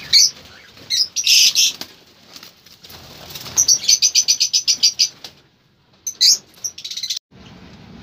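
Cage birds in an aviary chirping in short, high calls, with a quick even run of about ten chirps in the middle. About seven seconds in the sound cuts off suddenly to a low, steady background.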